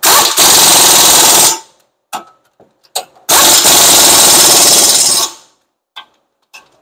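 Impact wrench run in two bursts, about a second and a half and then about two seconds long, hammering the front brake caliper bracket bolts tight.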